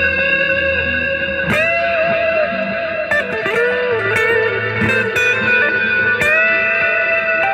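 Stratocaster-style electric guitar with newly fitted Fender Player Series pickups, played through an amp to test them: ringing chords struck about a second and a half in and again near the end, with bent, wavering single notes in between.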